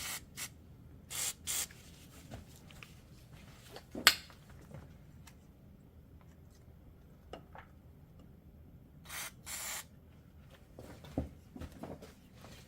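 WD-40 aerosol can spraying in short hissing bursts: two quick ones about a second in and two longer ones near the end. A single sharp click about four seconds in.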